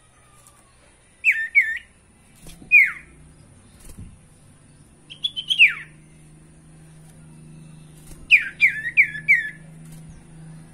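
Common iora (sirtu/cipoh) calling: short whistled notes, each sliding down in pitch, in separate bursts. There are two notes just after the first second, a single note a little later, a quick run of notes around the middle, and four notes near the end. A faint low hum sits under them from a couple of seconds in.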